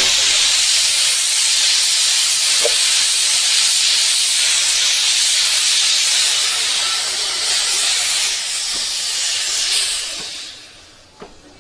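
A 15 in gauge ZB-style 2-6-2 steam locomotive letting off steam in a loud, steady hiss, which dies away about ten seconds in. A couple of faint clicks follow near the end.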